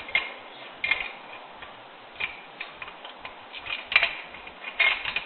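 Light, irregular clicks and taps of a hand tool working on a metal electrical box and its cable clamp.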